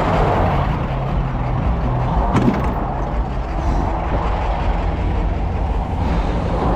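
Truck engine idling steadily, with a single sharp knock about two and a half seconds in.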